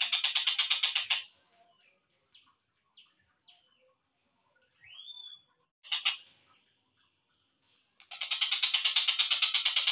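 Slowed-down recording of a tengkek buto kingfisher calling: a fast rattling trill, a few short notes and one rising whistle, then a long rattling trill from about eight seconds in.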